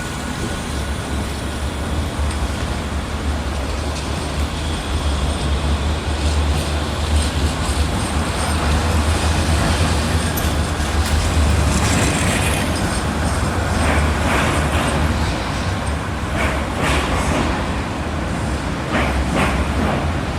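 A tram running on its rails: a steady low rumble with a run of clicks and rattles in the second half, ending with a sudden cut.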